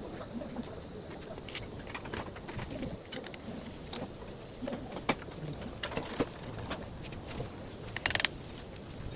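Scattered metallic clicks and clinks of hand tools and parts being handled during engine repair work, with a quick run of rapid clicks about eight seconds in.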